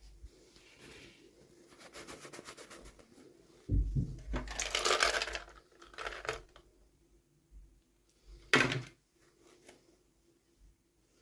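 Toy packaging being handled and opened by hand: plastic and paper crinkling and rustling in short bursts, with a low thump about four seconds in and a sharp loud crackle near the end.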